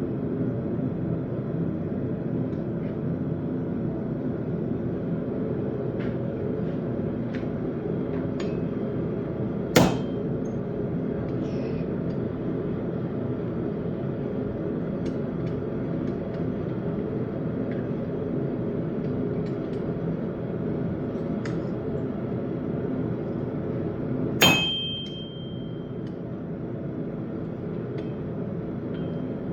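Two single hammer blows on an anvil while forging a railroad-spike knife, about fifteen seconds apart, the second leaving a short high metallic ring. Under them runs a steady low rushing noise, with faint scattered ticks.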